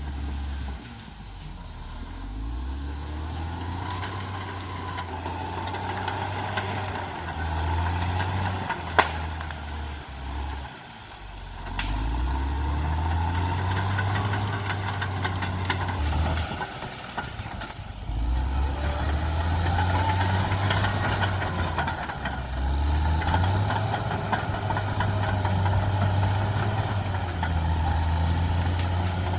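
Caterpillar D6R XL bulldozer's diesel engine working under varying load, its pitch rising and falling several times as the throttle opens and eases. A single sharp crack cuts through about nine seconds in.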